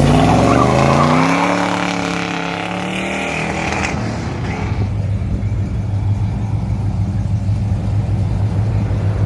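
V8 muscle car accelerating hard away, its engine note climbing in pitch and then fading after about four seconds. Another V8 then rumbles steadily at low revs close by.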